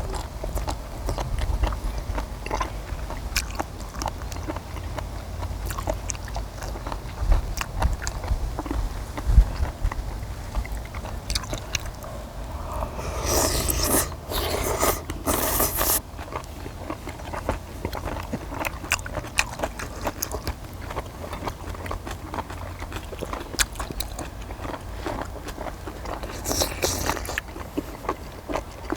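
People biting and chewing stir-fried small octopus and kimchi, with many small wet clicks and crunches, and a few louder noisy stretches around the middle and near the end.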